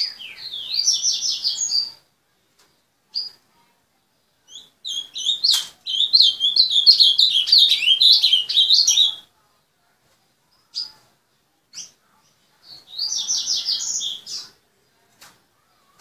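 Ultramarine grosbeak (azulão) singing: three phrases of quick, warbled, up-and-down notes, the middle one longest at about four seconds. A few single short notes fall in the gaps between phrases.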